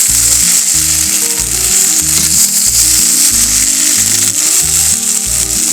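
Curry and rice sizzling steadily in a skillet over a log fire, under background music with a regular beat of low notes.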